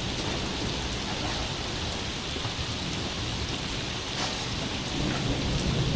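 Heavy tropical rain falling steadily, with a low rumble of thunder building near the end.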